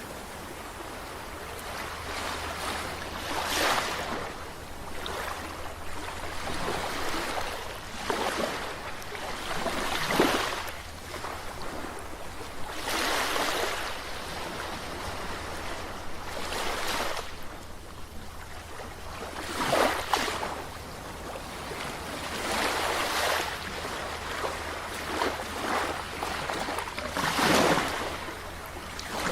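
Ocean surf: waves breaking and washing in, each one swelling up and dying away every few seconds.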